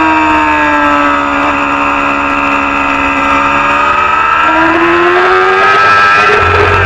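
Race motorcycle engine of the Supersport 300 class: its revs fall steadily for about four seconds as the bike slows, then climb again from about four and a half seconds in as it accelerates.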